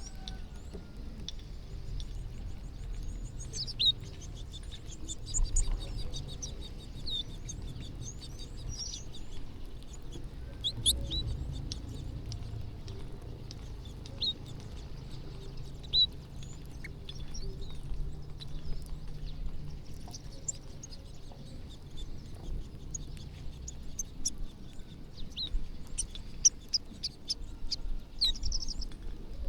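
A flock of small birds chirping while feeding, many short high chirps overlapping, with a few sharper, louder ones. A low steady rumble runs underneath.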